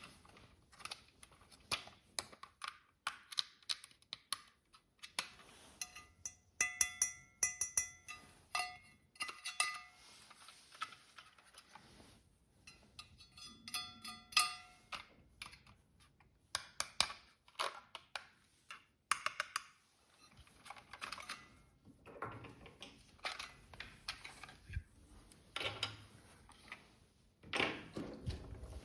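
Hard plastic toy parts and packaging being handled: a steady run of small clicks, taps and rattles, with two busier stretches of ringing clatter, one about six seconds in and one near the middle.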